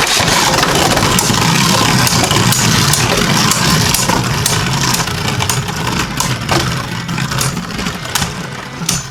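Two Beyblade Burst spinning tops whirring and grinding around a plastic stadium, with frequent sharp clicks as they strike each other and the stadium walls.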